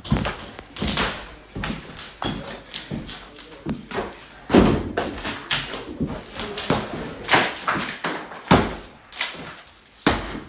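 A run of irregular knocks and thumps, some sharp and loud, with uneven gaps between them.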